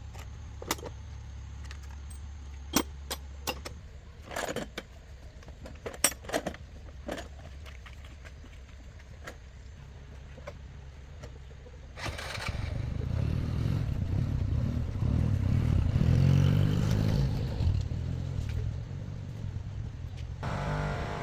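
A few sharp metallic clinks and taps over a low hum. About twelve seconds in, a motor starts up and keeps running with a low rumble, loudest a few seconds later.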